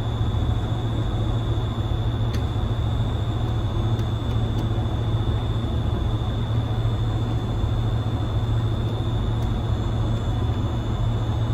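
Junior II breathing-air compressor running steadily, a low hum under a constant high whine, while it flushes air before filling the bottle.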